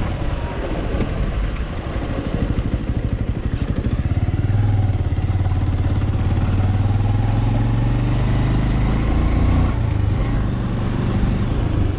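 Motorcycle engine running while riding, growing louder and pulling harder from about four seconds in.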